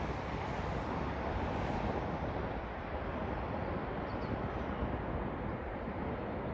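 Wind buffeting the microphone over the steady rumble of a jet airliner, its higher hiss slowly fading away.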